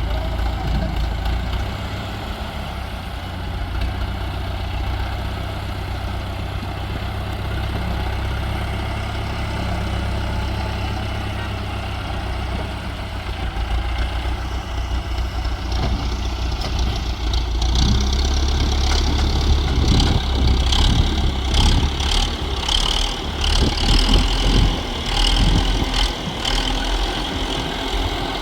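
Tractor engine running steadily at a low pitch. A little over halfway through, a louder, irregular scraping and rattling noise joins it and goes on, rising and falling.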